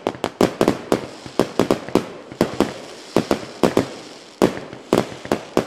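Fireworks display: aerial shells bursting in a rapid, irregular string of sharp bangs, several a second, over a continuous noisy wash.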